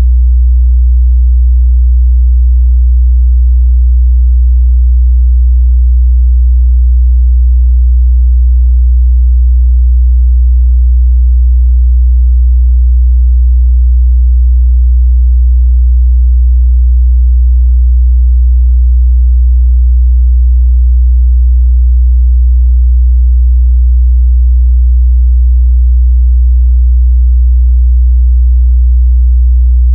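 A steady, loud 61 Hz sine-wave test tone: a constant low bass hum at one pitch, used to check a speaker's or headphone's mid-bass response.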